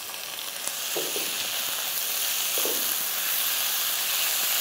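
Chopped tomatoes sizzling in hot oil in a nonstick kadai with sautéed onions, stirred with a silicone spatula. The sizzle is steady, swelling a little about a second in, with a couple of soft spatula scrapes.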